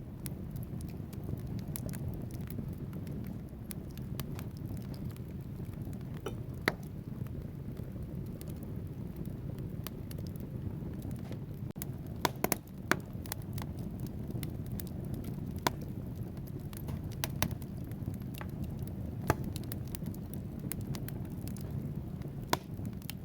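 Wood fire burning in a fireplace: a steady low roar of the flames with logs crackling and popping at irregular intervals, a few sharper pops standing out near the middle.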